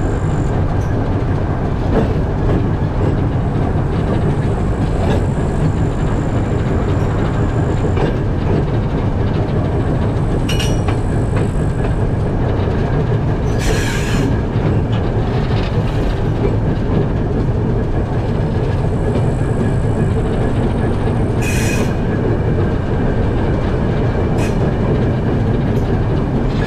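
Freight train of empty open wagons rolling past steadily: wheels rumbling and clattering over the rail joints, with three short high-pitched wheel squeals along the way.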